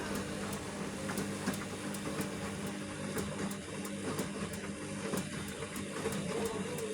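Vestel CM8710 8 kg washing machine in its final rinse: the drum turning with a steady motor hum and water churning, over a regular ticking of about two or three ticks a second.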